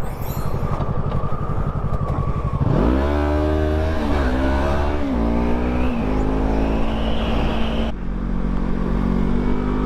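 Motorcycle engine accelerating hard: the revs climb sharply about three seconds in, then fall and rise again a few times as it shifts up, before settling into steadier running, over a constant rush of wind.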